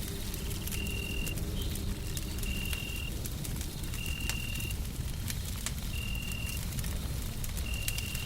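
Wood fire crackling over a steady low rushing white noise. A short high steady tone, about half a second long, repeats five times at an even pace of roughly one every second and a half.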